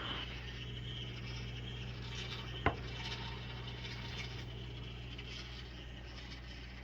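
COMFEE' CM-M093ARD microwave oven running with a steady low hum, with one sharp pop about two and a half seconds in. It is the weird popping sound like popcorn that this once-quiet microwave has started to make.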